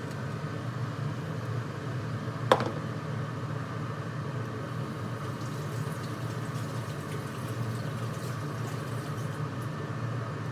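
Steady low kitchen hum, with one sharp, ringing clink about two and a half seconds in, as a utensil or dish is knocked while food is being plated.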